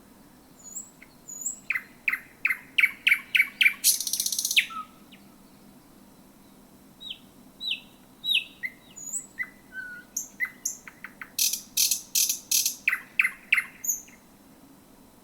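Thrush nightingale singing: two loud phrases of rapid, repeated clicking and whistled notes, the first ending in a short dry rattle about four seconds in, the second opening with a few falling whistles before the quick repeated notes return.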